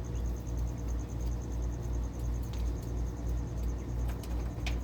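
Aviary ambience: a steady low rumble under a fast, even, high-pitched pulsing trill, with two brief high chirps, one about halfway and one near the end.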